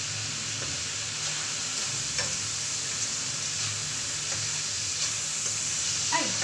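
Food sizzling as it stir-fries in a wok over a gas flame, stirred with a silicone spatula, with a few short scrapes against the pan about two, four and six seconds in. A low steady hum sits beneath the sizzle.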